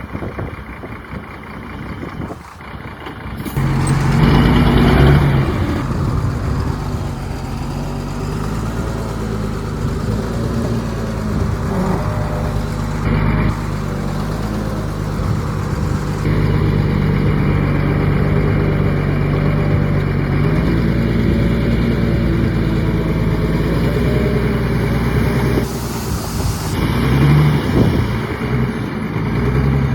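Heavy diesel engine of earthmoving machinery. It rises to a loud, steady working note about four seconds in and runs on under load, with a brief hiss near the end.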